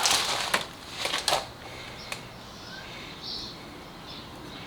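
A few light clicks and rustles from hands working a rubber hose onto its fitting, with one sharp click about two seconds in and quieter handling afterwards.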